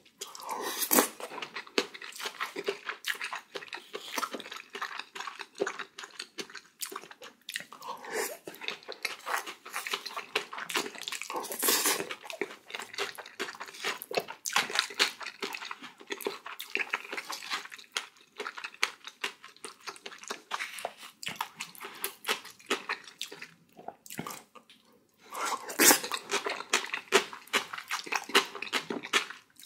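A person chewing and eating close to the microphone, mukbang-style: a mouthful of rice with spicy seasoned raw oysters, with many sharp wet clicks and smacks. There is a brief lull about 24 seconds in.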